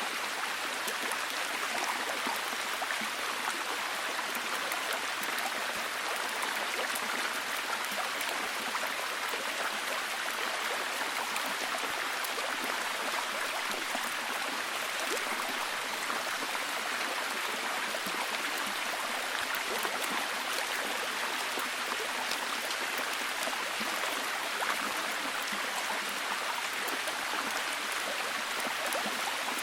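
Steady heavy rain, a dense even hiss of falling drops with many fine patters, unchanging throughout.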